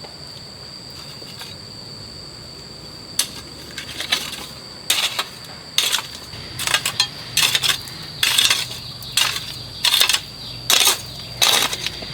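A metal shovel digging and scraping into stony soil, in repeated short gritty strokes that start a few seconds in and come faster towards the end. Under it runs a steady high-pitched insect drone.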